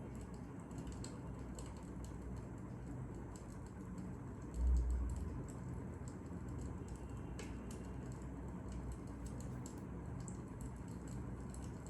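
Fire crackling: small irregular pops and snaps over a low rumble, with one dull low thump about four and a half seconds in.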